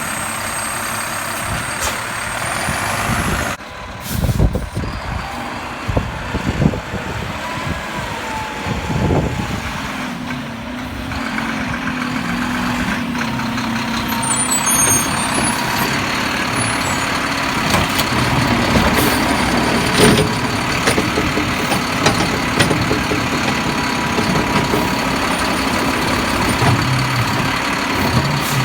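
Garbage truck running, its engine going steadily with scattered knocks and clanks.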